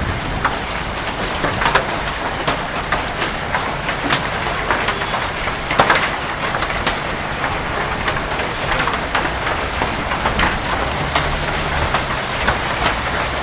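Hail falling with heavy rain: a steady rushing hiss dotted with many irregular sharp clicks and knocks of hailstones striking hard surfaces.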